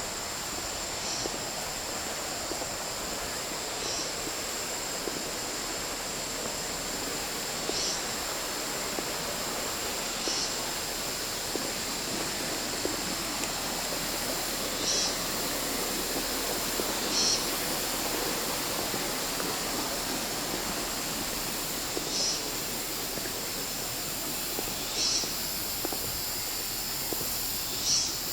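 Shallow water running steadily over the stones of a forest stream, an even rushing sound. Over it is a thin, steady high whine, and short high chirps come every two to three seconds.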